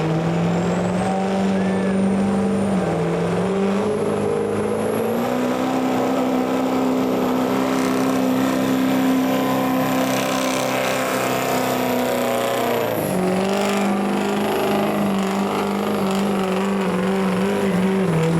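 Diesel engine of a truck or tractor puller running hard under load. Its pitch climbs a few seconds in, holds, then drops about thirteen seconds in, with a high whine rising and falling along with it.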